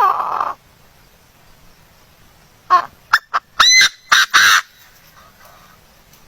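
A bird calling: a loud harsh call at the start, then a quick run of short, rising calls about three seconds in.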